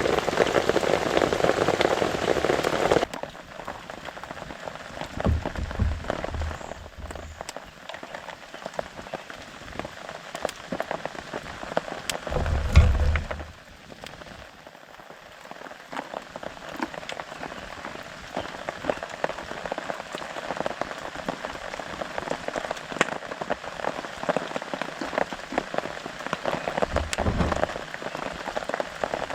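Rain pattering on a camping tarp, a steady dense ticking of drops. Heavier for the first few seconds, then it drops abruptly to lighter patter, with a few dull low thumps, the loudest about halfway through.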